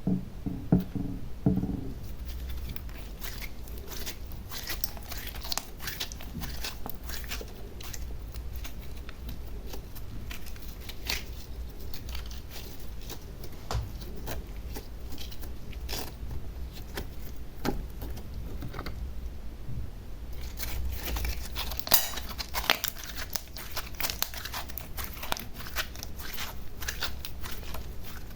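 Close-up handling of slime and decorating materials: irregular crackles, crinkles and small clicks, busier and louder about two-thirds of the way through.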